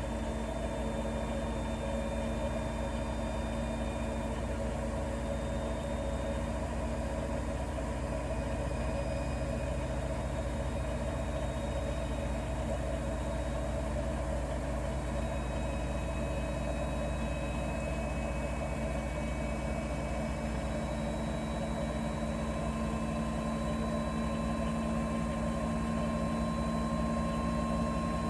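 Bosch Serie 4 WAK20260TR washing machine running mid-cycle on a cotton 90 °C program: a steady motor hum with faint thin whines that creep slowly upward in pitch, growing a little louder near the end.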